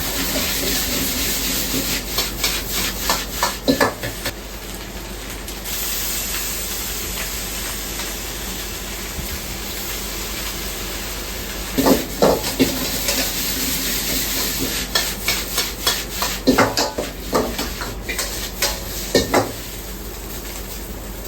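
Fried rice being stir-fried in a wok: a steady sizzle, with a metal ladle striking and scraping against the wok in quick runs of clanks. The clanking is busiest near the start and again through the second half, with a calmer stretch of plain sizzling in between.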